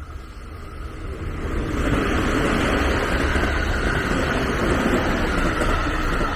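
Train passing close by: the rumble and rail noise build over the first two seconds, then hold steady and loud.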